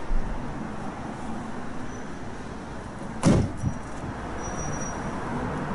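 Steady outdoor traffic noise, with a single thud about three seconds in as a panel on the Vauxhall Cascada is shut.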